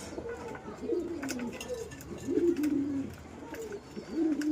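Domestic pigeons cooing, about four low, bending coos one after another, with a few faint clicks between them.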